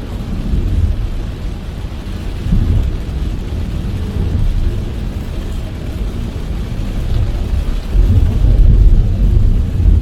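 Heavy rain beating on a moving car over a steady hiss, with a low rumble of tyres on the wet road that swells and is loudest near the end.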